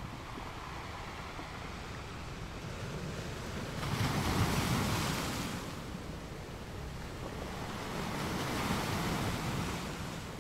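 Wind and choppy sea water: a steady rush of noise with wind rumbling on the microphone. It swells twice, suddenly about four seconds in and again more gently near the end.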